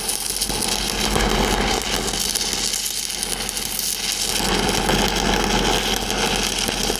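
Stick-welding arc crackling steadily as a downhill fill pass is run on a pipe joint, with a low electrical hum underneath.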